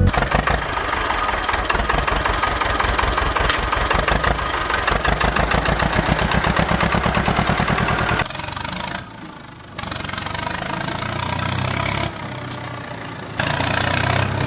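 Small engine of a homemade mini tractor running with a fast, even chugging pulse, then settling to a lower, steadier idle in several abruptly cut segments.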